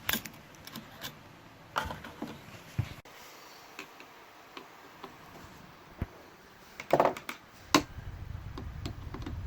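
Scattered light clicks and knocks of someone moving about and handling tools, with a short burst of clatter about seven seconds in. A low steady rumble starts near the end.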